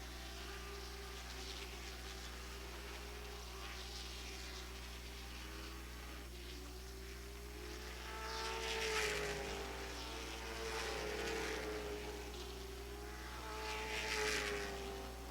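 Late model stock car engines running at race speed around the oval: a steady, wavering drone that swells loudest as cars pass about nine seconds in and again near the end.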